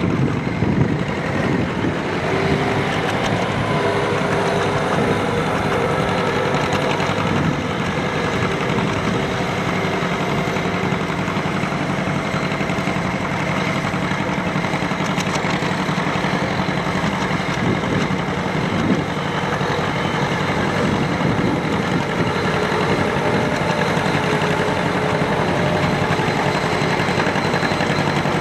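Antique farm tractor engine running steadily, with no marked revving.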